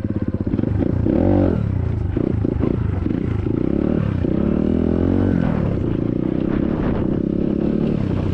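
SSR 150cc dirt bike's single-cylinder four-stroke engine running under way, its revs dipping and climbing several times.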